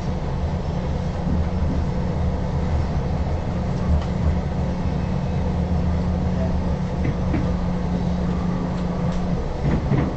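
Diesel passenger train running, heard from inside the carriage: a steady low drone with a held hum that stops near the end, and a few light clicks.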